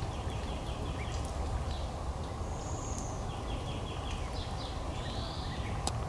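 Small birds giving high, thin calls in quick runs of notes, with a brief higher whistle and an arched call near the end, over a steady low background rumble; a single sharp click just before the end.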